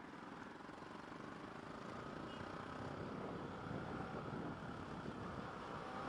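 Motorcycle on the move: engine and wind noise, growing steadily louder.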